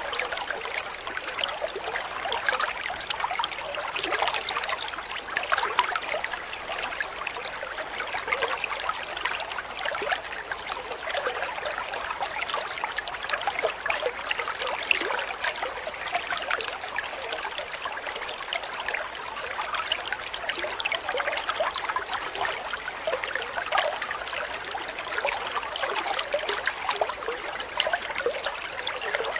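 Water trickling and splashing steadily over stones, like a small stream.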